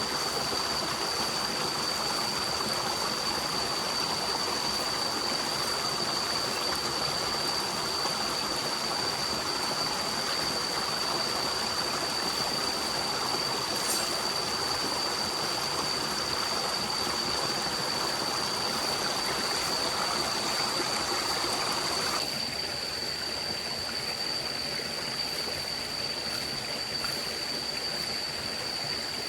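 A forest stream running, a steady rush of flowing water, with a thin high steady tone running under it throughout. About three-quarters of the way through, the water sound drops a little quieter.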